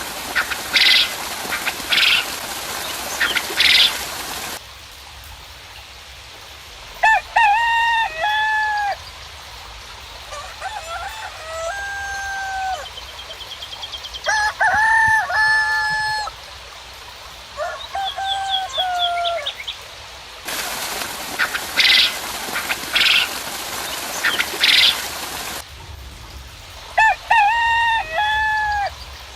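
Roosters crowing again and again, each crow a drawn-out call of several parts, spaced a few seconds apart. Twice a stretch of hiss comes in with three sharp, high bird calls over it.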